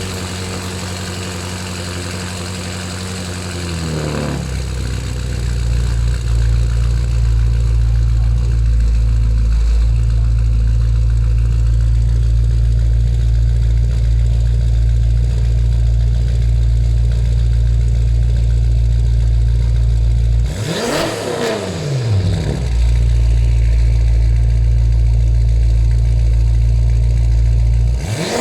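2014 BMW M5's twin-turbo V8 running through a straight-piped custom stainless steel exhaust with the back boxes removed. It settles from a lighter tone into a loud, deep, steady drone about four seconds in. About 21 s in, the pitch briefly rises and falls, and it does so again at the very end.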